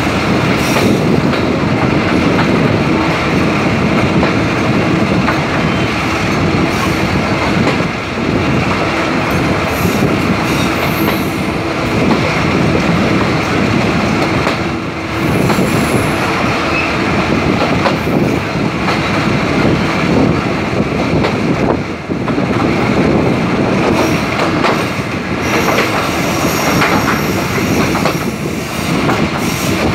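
Broad gauge passenger train running at speed, heard from an open coach window: steady loud wheel and rail noise with a rhythmic clatter. Thin high wheel squeal rises now and then as the wheels take the curve.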